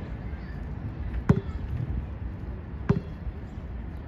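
Basketball bouncing on the court's hard surface, two hollow bounces about a second and a half apart. Wind rumbles on the microphone.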